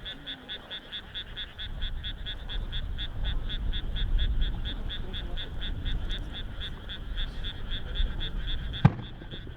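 A chorus of frogs calling in a steady fast rhythm, about four to five calls a second, over a low rumble. A single sharp crack comes near the end.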